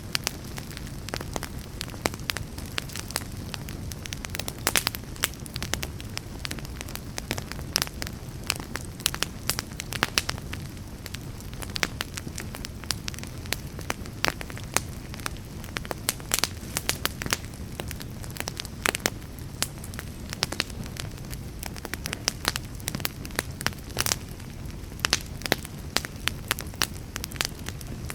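Wood fire burning, with a steady low rumble of flame under frequent sharp, irregular crackles and pops.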